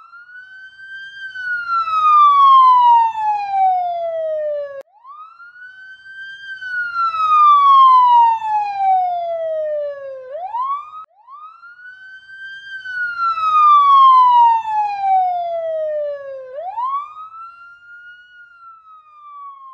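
Police siren wailing: each cycle climbs quickly, then falls slowly over about four to five seconds, repeating three and a half times.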